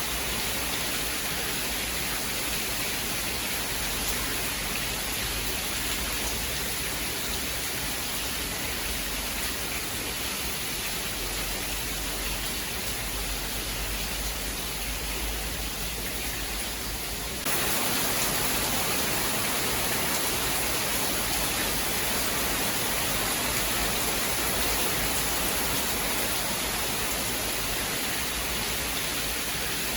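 Steady rain, an even hiss with no thunder heard. A little past halfway it abruptly gets louder and stays that way.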